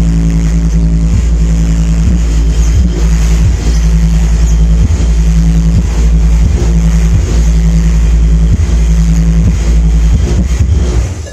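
Loud bass-heavy sound played through a sound-system speaker under test: a steady low drone with faint regular beats over it, cutting off suddenly near the end.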